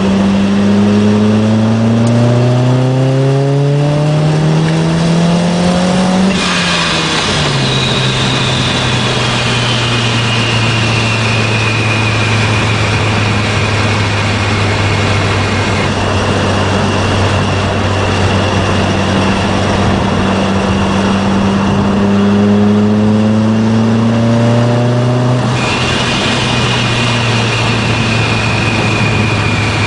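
Supercharged 2004 Nissan Sentra SE-R Spec V's 2.5-litre four-cylinder through a Nismo exhaust, accelerating twice with the engine note rising, then dropping at each upshift. After each shift a high whine glides down in pitch. Between the pulls the car cruises at a steady low drone.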